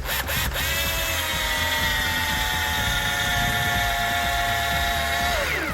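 Keyang DD-1200 12V cordless drill driver running under load, driving an 8 cm self-drilling screw: a steady motor whine that sags slowly in pitch as the screw goes in, then winds down sharply as the motor stops near the end.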